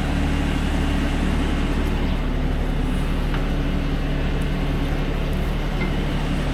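Tractor engine running steadily at constant speed, driving a feed mixer as it mixes a load of cattle feed.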